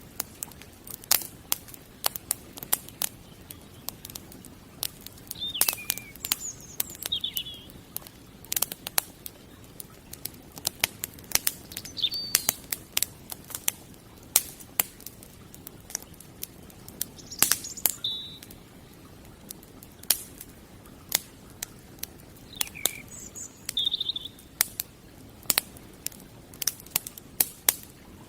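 Wood fire crackling, with frequent sharp pops and snaps from the burning firewood. A bird chirps in short calls several times over it.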